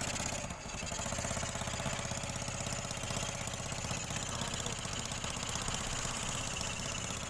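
TVS Jupiter 125 scooter's freshly rebuilt single-cylinder four-stroke engine idling steadily with an even, fast pulse, after having seized before the rebuild. Its sound dips briefly about half a second in.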